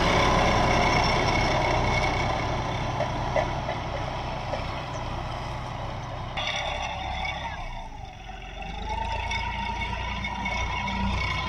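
John Deere four-wheel-drive tractor's diesel engine running while pulling a plough. It fades somewhat, then grows louder again, with its whine dipping and rising in pitch around eight seconds in. The sound changes abruptly about six seconds in.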